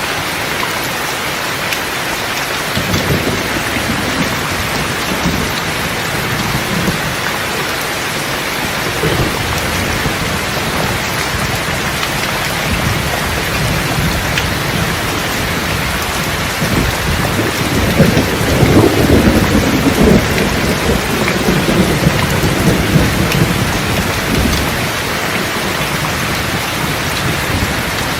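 Steady heavy rain with rolling thunder: low rumbles begin a few seconds in, and the loudest peal comes a little past the middle, lasting a few seconds before it fades back into the rain.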